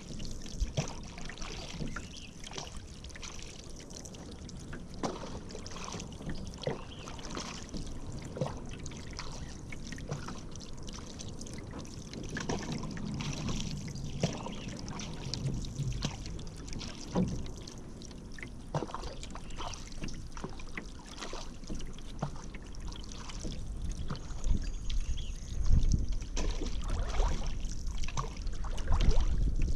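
Paddle strokes in river water: irregular splashes and drips as the blade dips and lifts, over a steady watery hiss. A louder low rumble builds over the last few seconds.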